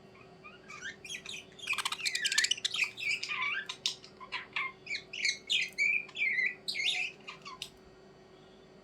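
Birds calling in a rapid run of short chirps and calls, busiest about two seconds in, stopping shortly before the end. A faint steady hum runs underneath.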